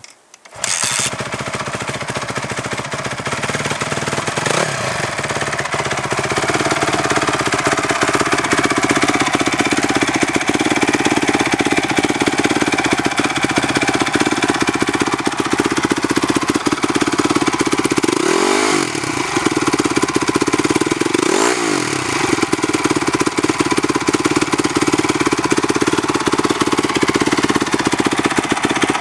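2008 Honda CRF250R's single-cylinder four-stroke engine starting up about half a second in, then idling steadily, with two quick revs about three seconds apart later on.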